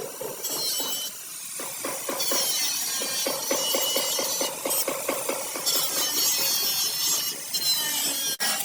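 Hammer blows on car-body sheet metal, several strikes a second with a metallic ring: panel-beating (denting) work.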